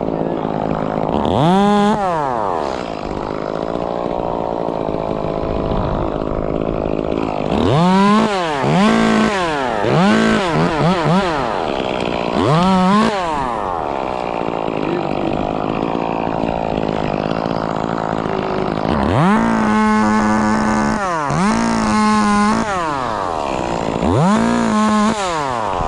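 Chainsaw revving up to full speed in short bursts and dropping back to idle between them, about nine times, as branches are cut.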